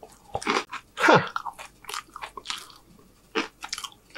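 Close-miked crunching and chewing of a crisp fortune cookie, a run of short, sharp crackles with the loudest crunch about a second in.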